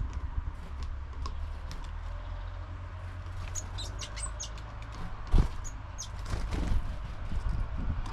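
Small birds at a garden feeder: a few short, high chirps around the middle, with scattered taps and knocks of birds pecking and landing on the feeder, one louder knock about five seconds in, over a low steady rumble.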